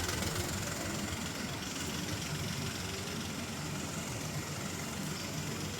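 Steady mechanical hum and hiss with a low rumble, running evenly throughout.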